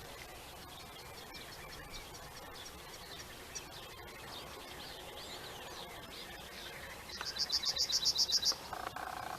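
Small birds chirping and twittering, with a loud, rapid trill of about eight notes a second in the last two seconds, followed by a brief lower-pitched call.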